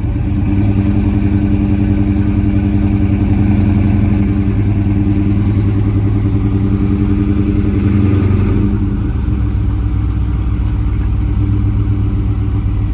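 Dodge SRT 392's 6.4-litre HEMI V8 running at a steady idle; its note drops and settles lower about eight and a half seconds in.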